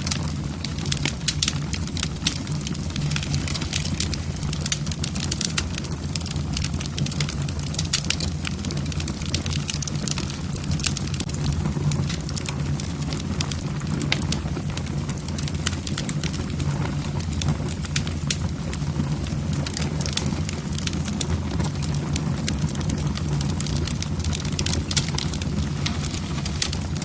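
Wood fire in a fireplace burning steadily, the logs crackling and popping in many quick irregular snaps over a low steady rumble of the flames.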